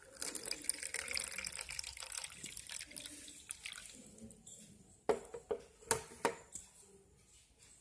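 Water pouring and splashing into a disposable cup for about three seconds, followed by three sharp knocks a little after the five-second mark.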